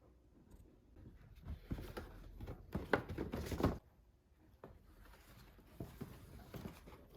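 Rustling and light clattering of things being handled, with scattered clicks, loudest in a burst from about two to four seconds in.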